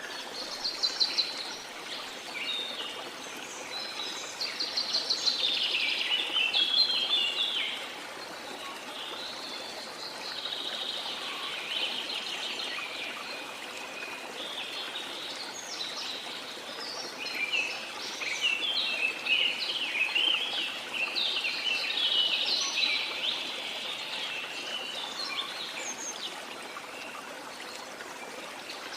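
Rainforest ambience: birds singing in rapid chirps and trills over a steady rush of flowing water, the birdsong loudest about a second in, again from about four to seven seconds, and again past the middle.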